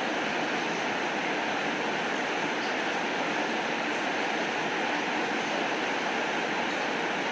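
Steady rainfall, an even hiss of drops that does not change.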